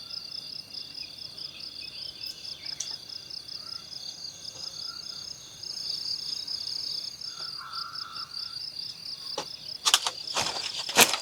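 A chorus of insects chirping in a steady, evenly pulsing high trill. Near the end a few sharp snaps or knocks stand out as the loudest sounds.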